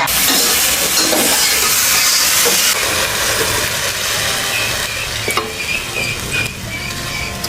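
Steady loud hissing, like sizzling or steam, that steps down slightly about a third of the way in, with a few sharp clicks after the middle.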